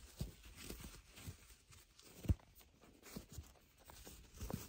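Faint, scattered clicks and rustles of gloved hands handling a car headlight assembly and bulb, with one sharper knock about two seconds in.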